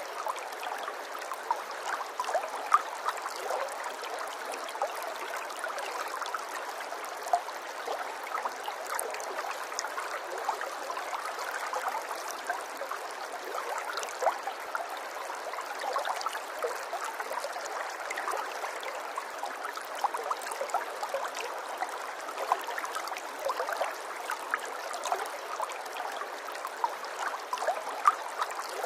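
Running water trickling and gurgling steadily, with many small splashes and drips through it.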